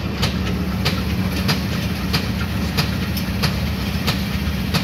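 Passenger coaches rolling slowly past, their wheels clicking over the rail joints about every two-thirds of a second, over a steady low hum.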